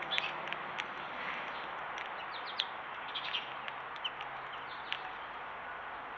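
Small birds giving a few short high chirps over a steady background hiss, with scattered sharp clicks.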